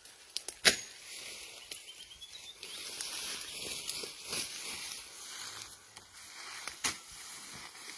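Rustling hiss of brush and grass being disturbed, with a few sharp clicks or knocks, the loudest just under a second in and another near the end.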